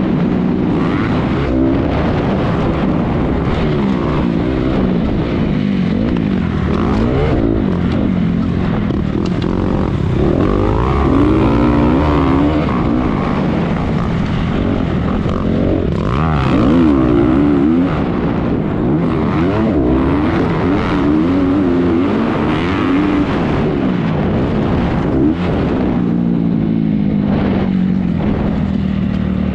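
Honda 250 motocross bike engine revving up and down over and over as it is ridden hard around the track, over a constant rush of noise.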